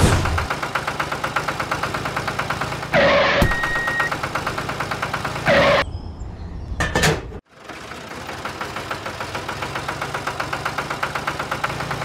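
Tractor diesel engine idling with a rapid, steady knocking beat. Short louder noises break in about three and six seconds in, and the engine sound drops out briefly just past the middle before resuming.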